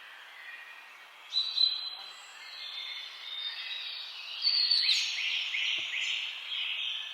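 Several wild birds singing and calling over one another. A short loud burst of calls comes about a second and a half in, and a run of quick, downward-sliding notes follows from about four and a half seconds, over a faint steady background hiss.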